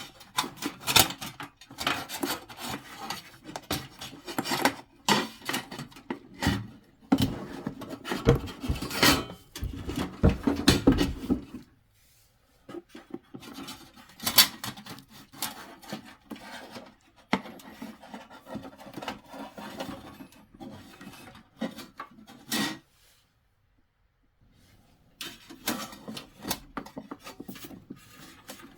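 Diesel heater's plastic parts being handled and set down: irregular rubbing, scraping and small knocks, with two short pauses, one about twelve seconds in and one a few seconds before the end.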